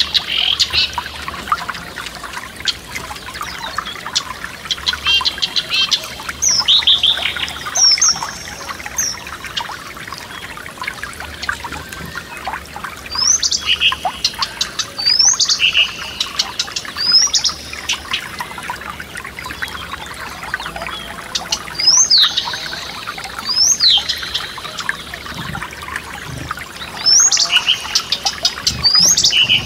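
Songbirds singing in phrases every few seconds, each made of short high notes that slide sharply down in pitch, over the steady trickle and splash of a forest stream running over stones.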